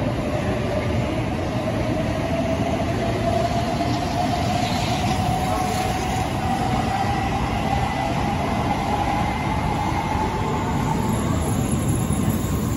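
N700A Shinkansen train running alongside the platform, a steady rushing rumble with a whine that slowly rises in pitch.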